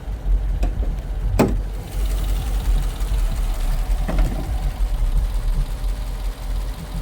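Dodge Durango's 5.7 Hemi V8 idling with a steady low rumble and a light tick. The owner puts the tick down to an exhaust leak or noisy injectors rather than a lifter. A sharp click comes about a second and a half in, and a softer knock around four seconds.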